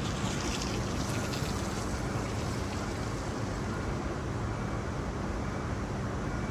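Tram running: a steady rumble with a constant low hum, and a light high rattle in the first second or two.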